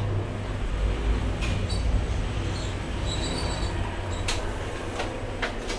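Lift car travelling between floors: a steady low rumble of the moving car, with a few clicks and short high electronic tones.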